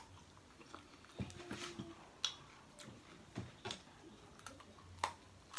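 Close-up eating sounds: a whole raw cucumber and then a slice of pizza being bitten and chewed, with a string of sharp, irregular crunches.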